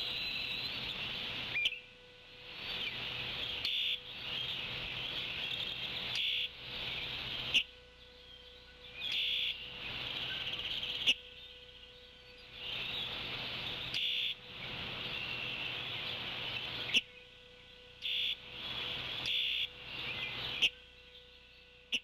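Birdsong from the surrounding woods, picked up by the nest-cam microphone in repeated stretches of a second or two with short pauses between, over a faint steady hum.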